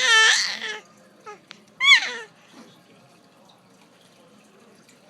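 A baby's high-pitched squealing vocal noises: a longer squeal at the start and a short falling squeal about two seconds in, then only faint room noise.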